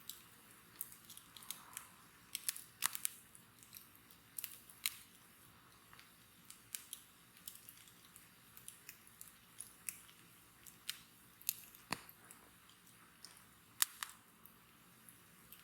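Wood bonfire crackling: irregular sharp pops and snaps over a faint steady hiss, a couple of them louder than the rest.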